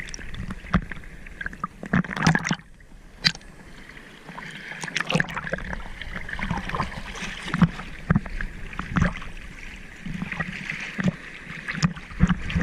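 Sea water splashing and sloshing close to the microphone of a GoPro held in the surf, with sharp splashes at irregular moments.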